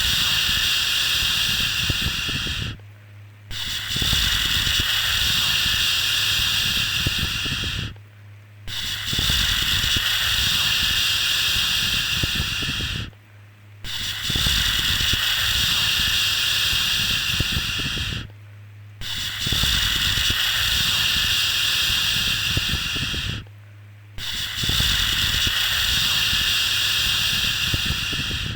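A soothing 'shhh' shushing sound for babies, repeated in long, even strokes of about four and a half seconds, each broken by a brief pause, about every five seconds. A faint low hum runs underneath.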